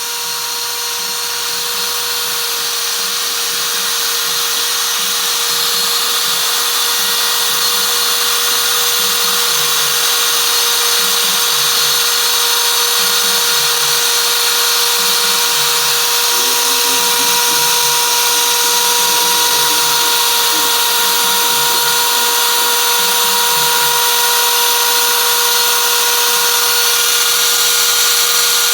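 CNC router spindle running and cutting, a steady whine with a hiss that grows gradually louder over the first several seconds.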